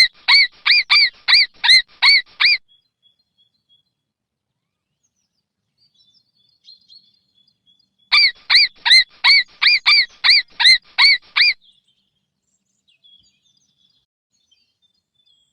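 Mouse squeaking: two runs of quick, high, evenly spaced squeaks, about four a second. One run opens the clip and a second comes about eight seconds in, with a long quiet gap between.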